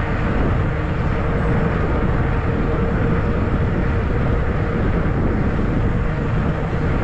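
Wind rushing over the microphone and fat tyres rolling along a trail during an e-bike ride: a steady, heavy rushing noise with a faint steady hum under it.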